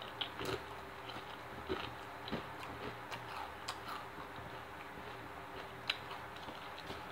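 A person chewing spicy Doritos tortilla chips close to the microphone: faint, irregular crunches and mouth clicks, with one sharper click about six seconds in.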